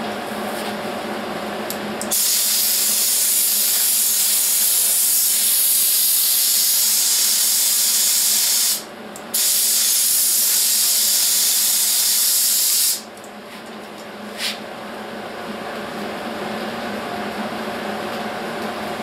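Welding on sheet-metal wheelhouse panels: two long runs of steady hissing, the first about six and a half seconds and the second about four seconds after a brief pause. A low steady hum lies underneath, and a single click comes about a second after the welding stops.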